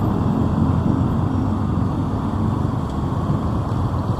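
Motorbike running steadily on the move, its engine hum under a heavy, even rush of wind and road noise.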